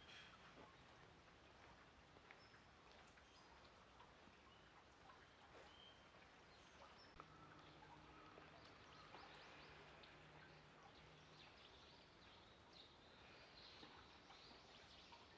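Near silence: faint outdoor background noise with scattered distant bird chirps, and a faint low hum through the middle.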